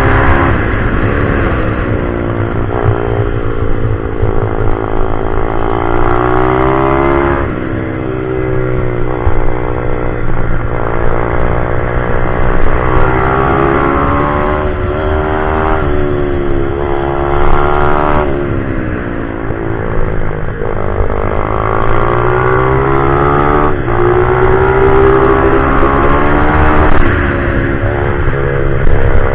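Pit bike engine being ridden hard around a track. Its note climbs in pitch again and again and drops suddenly, as it accelerates, changes gear and slows for corners.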